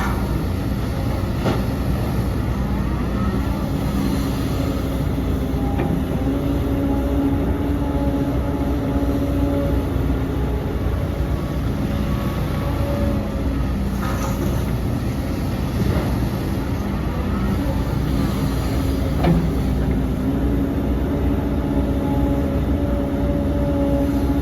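Heavy diesel earthmoving machinery running steadily, its engine note swelling and easing a few times as it works under load, with a few sharp knocks, the loudest about 19 seconds in.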